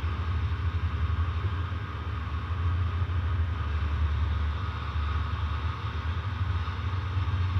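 Outdoor central air-conditioner condenser running: a steady low compressor hum under the even whir of the condenser fan.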